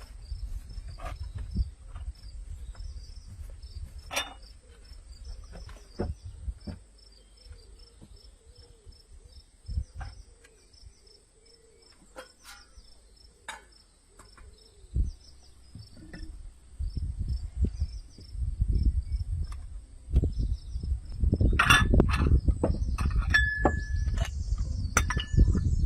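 Crickets chirping outdoors: a steady high-pitched trill and a rapid pulsed chirp that run on throughout. Underneath is a low rumble that grows louder in the last third, with scattered clicks and knocks.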